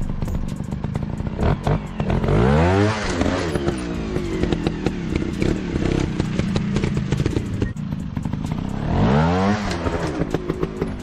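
Motorcycle engine sound revving up and back down twice, about two seconds in and again near the end, with rapid clattering clicks throughout.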